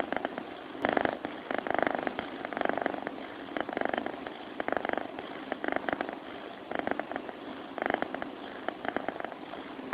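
Sleeping cat purring, a buzzing purr that swells and fades about once a second with its breathing.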